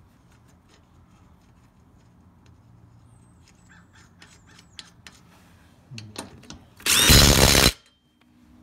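DeWalt DCF887 cordless impact driver with a 21 mm impact socket hammering a lug nut tight in one short, loud burst of rapid impacts, under a second long, near the end. Before it come a few faint light clicks.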